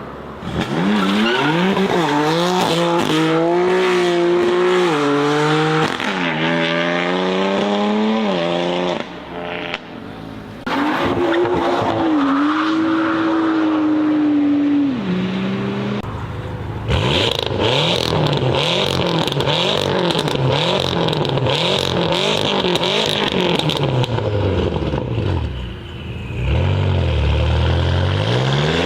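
BMW performance car engines and exhausts accelerating hard through the gears, the pitch climbing and dropping at each shift, across several cut-together clips. In the second half the engine revs up and down with tyre squeal, and a deep rev rises near the end.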